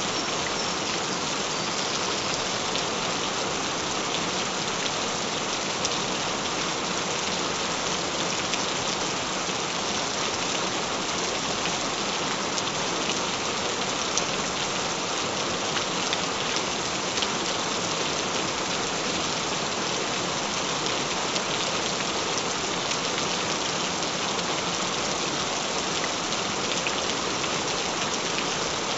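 Recording of gentle rain falling steadily: an even hiss with fine scattered drop patter and no change throughout.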